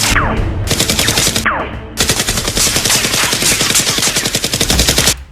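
Rapid automatic gunfire in Nerf-battle play, in three long bursts of fast, evenly spaced shots with two short breaks. Each break opens with a falling whistle, and the firing stops suddenly just before the end.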